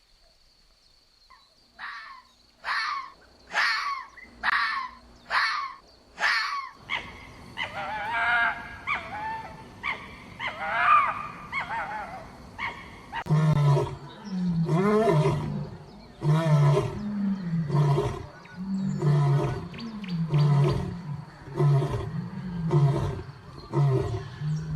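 Several short high mewing calls, then a big cat roaring: deep wavering calls that settle, about halfway through, into a steady series of low grunting roars about once a second.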